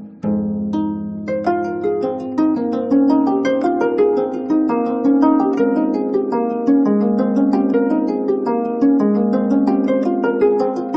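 A 25-string gayageum, the Korean plucked zither, played solo. A low plucked note rings for about a second, then a fast, unbroken stream of plucked notes begins and runs on, several notes a second.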